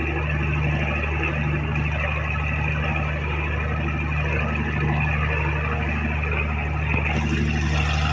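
Fishing boat's engine running steadily, a constant low drone, with a hiss of noise over it that grows brighter about seven seconds in.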